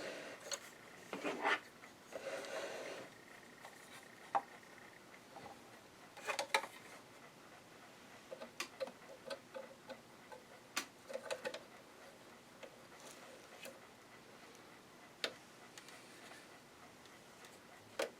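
Irregular small clicks and taps of a screwdriver, tiny screws and plastic parts being handled while a sewing machine is taken apart, with some rustling in the first few seconds.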